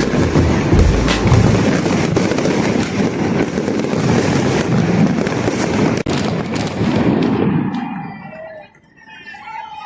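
Fireworks display at its height: a dense barrage of bursts and crackling with many rapid bangs overlapping, dying away about eight seconds in.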